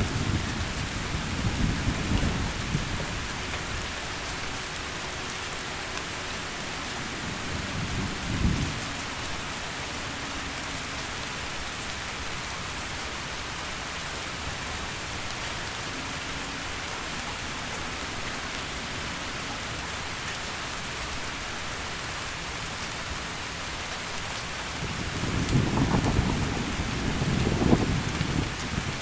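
Heavy rain falling in a steady hiss through a thunderstorm. Low thunder rumbles at the start, a short sharp thunderclap comes about a third of the way through, and rolling thunder swells up again near the end.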